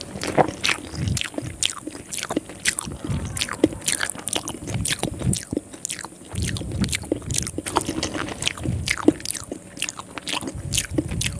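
Close-up wet chewing and mouth sounds of someone eating soft rice noodles soaked in sweet coconut milk by hand: a steady run of quick, sticky clicks and smacks.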